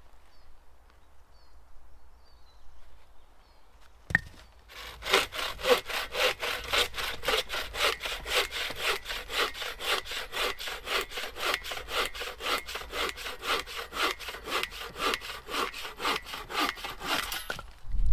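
Hand saw cutting through a wooden brace at an angle, in steady back-and-forth strokes about three a second that start about five seconds in and stop just before the end. A single sharp knock comes just before the sawing starts.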